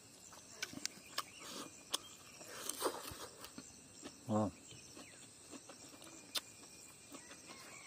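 A person chewing food with small wet smacking clicks of the mouth, with a short hummed "mm" about four seconds in. A faint steady insect drone runs underneath.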